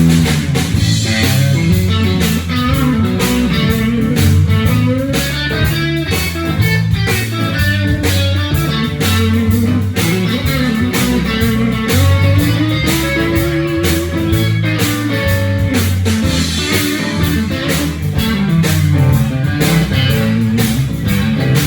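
Live blues-rock band playing an instrumental break: electric guitar solo over bass guitar and drums with a steady beat.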